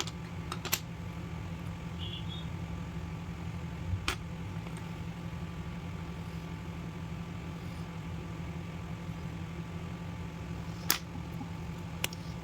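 A steady low hum with a few sharp clicks or taps scattered through it: three close together right at the start, then single ones about four seconds in, near eleven seconds, and near the end.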